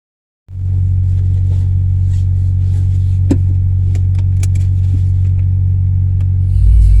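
Honda CR-V exhaust idling with the resonator and muffler removed: a steady, loud low drone, with a few sharp clicks in the middle.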